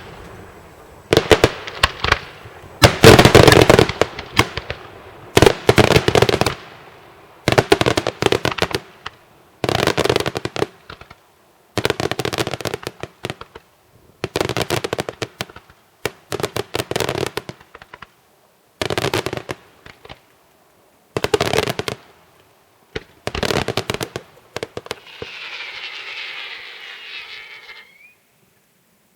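Daytime fireworks going off in bursts of rapid, loud bangs. Each burst lasts about a second and they come roughly every two seconds with brief gaps. Near the end there is a softer hissing stretch.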